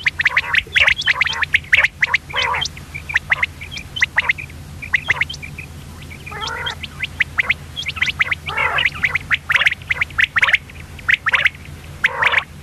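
Common quail calling: quick irregular runs of short, sharp high chirps, broken now and then by a lower rasping call, over a steady low hum.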